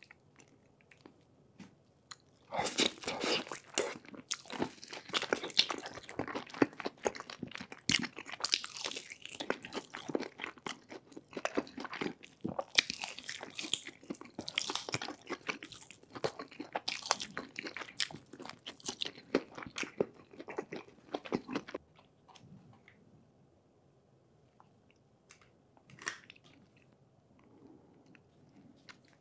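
Crunching and chewing of cheese-sauce-dipped fried chicken right at the microphone: a dense run of crackly bites that starts a couple of seconds in and stops about three-quarters of the way through.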